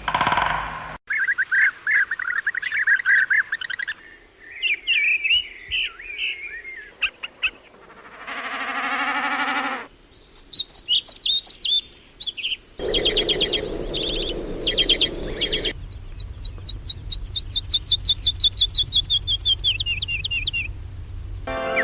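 Various birds singing and calling in a sequence of short passages that cut abruptly from one to the next. About eight seconds in there is a two-second call with a rich, buzzy tone. Near the end a long series of quick chirps steps down in pitch.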